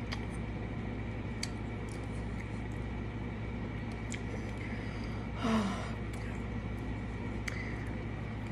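A person eating a Double Quarter Pounder with Cheese up close: quiet chewing with small wet mouth clicks, over a steady low background hum. About five and a half seconds in there is one brief vocal sound from the eater.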